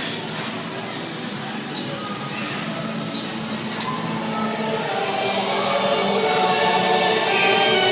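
A small bird chirping repeatedly: short, high, falling chirps about once a second, a few in quick succession near the middle. Background music with sustained strings fades up under it in the second half.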